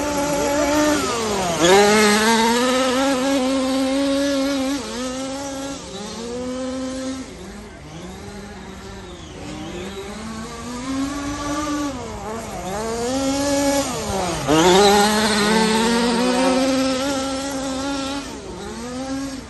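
Radio-controlled off-road cars running laps on a track, their motors rising and falling in pitch over and over as they accelerate, brake and pass, with two loud close passes about two seconds in and near fifteen seconds.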